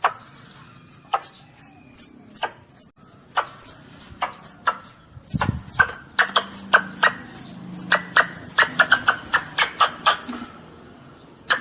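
Asian palm civet (luwak) kittens calling: a rapid run of short, high-pitched squeaks, each falling in pitch, sparse at first and coming thick and fast in the second half.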